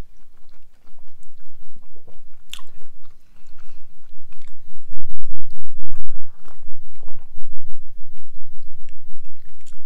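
Close-miked chewing of homemade pizza. It is soft at first, then from about halfway through it grows loud and rhythmic, with several chews a second.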